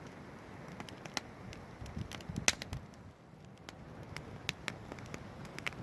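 Campfire crackling: irregular sharp pops and snaps over a soft, steady hiss, with the loudest pop about halfway through.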